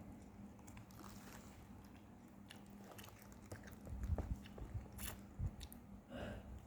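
A person eating sausage close to the microphone: biting and chewing with small wet clicks of the mouth, a few louder bites about four to five seconds in.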